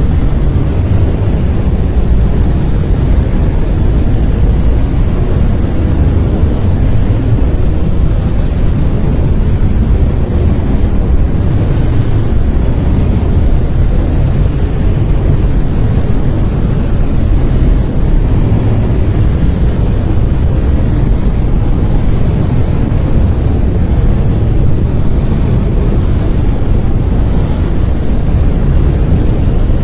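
Brown noise: a steady, deep rumbling hiss, strongest in the low end and fading off toward the highs, with no changes or events.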